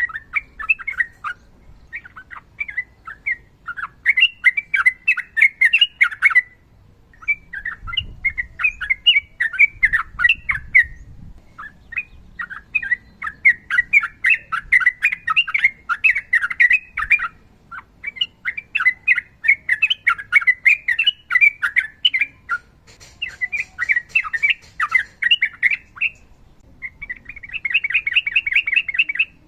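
Sooty-headed bulbul singing long, rapid phrases of chirpy notes in a run of bursts broken by short pauses, ending in a fast, even trill.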